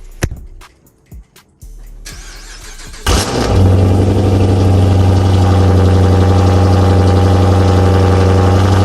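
Dodge Charger R/T's Hemi V8 cold-started: a click near the start, a brief crank about three seconds in, then the engine catches and settles into a loud, steady idle.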